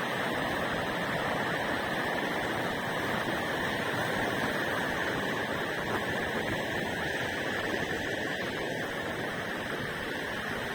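A river rushing steadily, swollen with rain water, as an even rushing noise.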